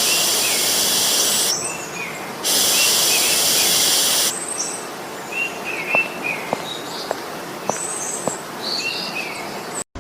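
AI-generated small caged bird chirping in short repeated calls, broken by two long stretches of loud high hiss in the first half. Around the middle, a few faint clicks come about half a second apart.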